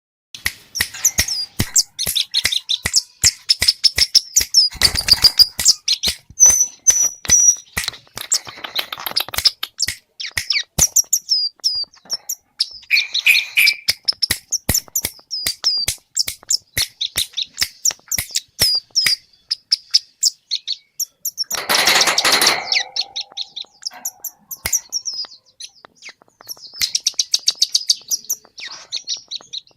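Scarlet-headed flowerpecker singing non-stop, a rapid run of very high, sharp chirps and short notes. The song is mixed with calls it has learned from other birds. A few short rustling bursts break in, the loudest about two-thirds of the way through.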